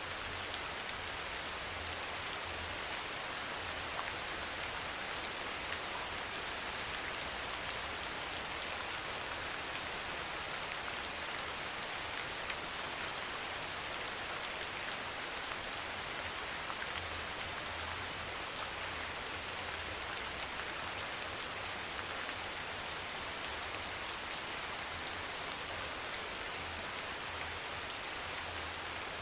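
Steady soft rain, an even hiss sprinkled with faint ticks of individual drops. A low hum comes and goes underneath.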